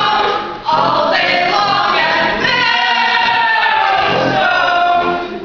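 Ensemble music in close harmony: sustained chords that break off briefly about half a second in, then long held chords with some notes gliding in pitch, dropping away near the end.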